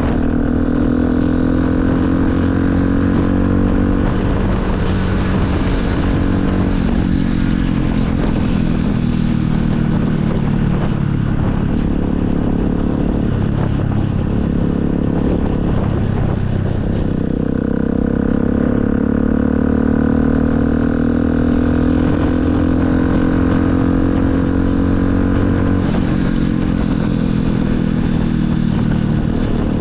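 Motorcycle engine running while riding, its note dropping slowly over the first dozen seconds, climbing again from about seventeen seconds in, and easing off near the end.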